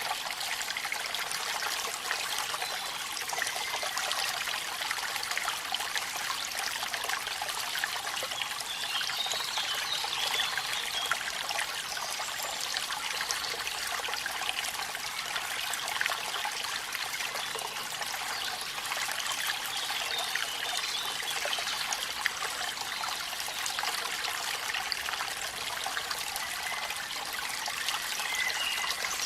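Steady running water with a dense patter of fine drops: a waterfall and rain at night.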